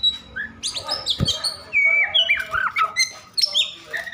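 Oriental magpie-robin (kacer) singing a fast, dense string of sharp whistles, slurred glides and chirps, the agitated, fired-up song of a bird in high emotion.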